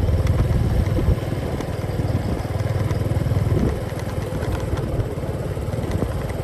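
Motorcycle engine running steadily while riding, its rapid firing pulses strongest in the low range; it eases off slightly a little past halfway.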